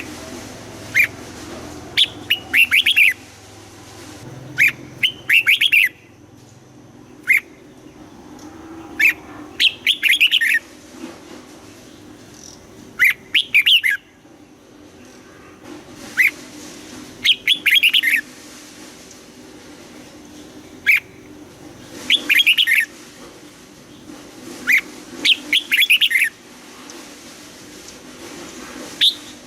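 Red-whiskered bulbul singing short phrases of quick, clear notes, one every two to three seconds, over a steady low hum.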